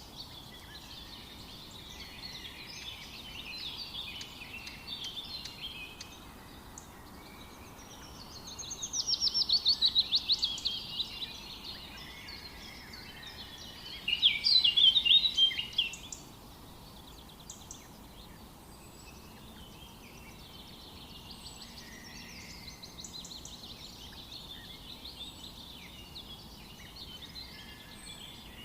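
Several birds singing and chirping together in a forest chorus. Two songs stand out: a fast trill of rapid notes starting about eight seconds in and lasting a few seconds, and a louder dense burst of song around fourteen seconds in.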